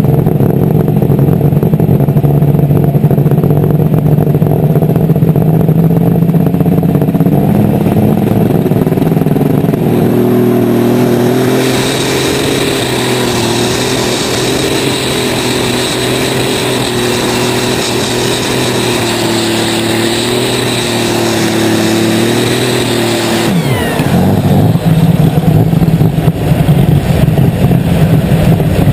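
Turbocharged diesel engine of a light super stock pulling tractor, heard close up. It runs at a steady lower speed for about ten seconds, then climbs to full power with a high turbo whine for about twelve seconds during the pull. Near the end the throttle comes off, the pitch and whine fall away quickly, and the engine drops back to a low, rough run.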